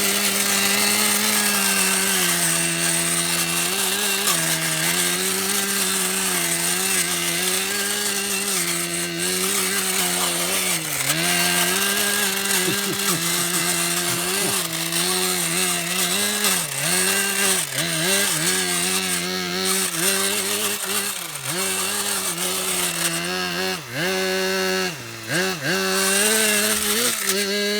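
Small high-revving model engine of a radio-controlled Blizzard GP model, running continuously with a buzzing whine. Its pitch holds steady at first, then drops and climbs again many times, more often near the end, as the throttle is eased off and opened up again.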